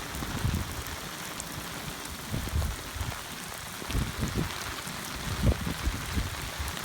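Very heavy rain pouring down in a steady hiss of falling water, with irregular low thumps scattered through it.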